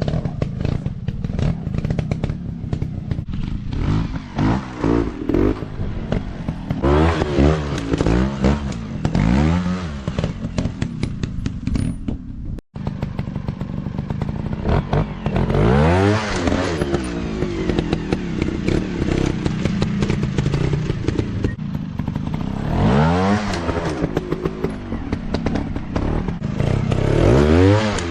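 Dirt bike engines running off-road, revving up and dropping back again and again as the bikes are ridden. The sound breaks off for an instant about halfway through.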